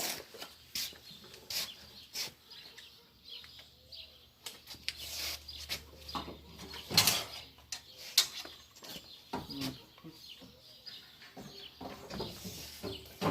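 A series of irregular knocks and clatters from gear being handled, the loudest about seven seconds in.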